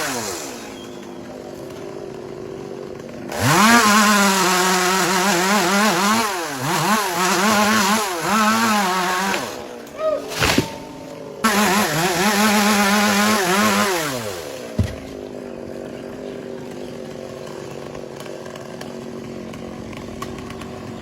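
Two-stroke chainsaw idling, then revved to full throttle twice for several seconds each, its pitch dipping and recovering, before dropping back to idle. A couple of sharp knocks come between the two bursts.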